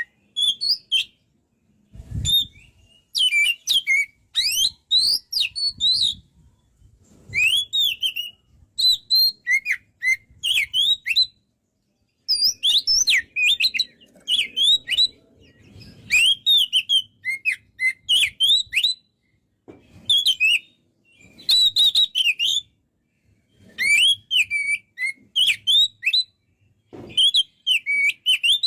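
Oriental magpie-robin singing loudly in rapid phrases of sliding, whistled notes, with short pauses between the phrases.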